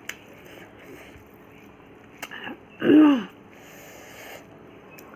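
A person eating, with small mouth clicks. About three seconds in comes a short voiced sound from the throat that rises and falls in pitch, the loudest sound here.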